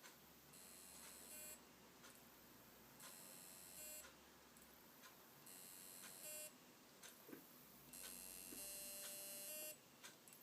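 Hard drive inside a WD My Book Live NAS making a faint, strange noise. High-pitched buzzing chirps repeat about every two and a half seconds, each lasting about a second (the last one a little longer), with soft clicks between them.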